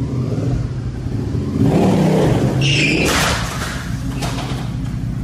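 Motorcycle engine running and revving hard indoors, rising about two seconds in, with a noisy crash about three seconds in as the bike lurches forward across the room.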